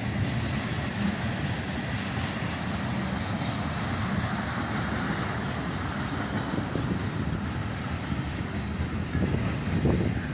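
Freight train tank cars and boxcars rolling past on the rails: a steady rumble of steel wheels on track, getting louder near the end.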